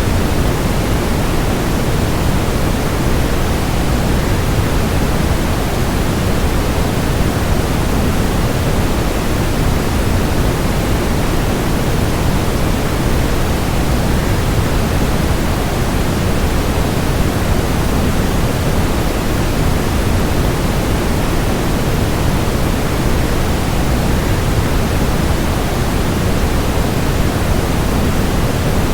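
Waterfall: falling water as a steady, unchanging noise, heaviest in the low end.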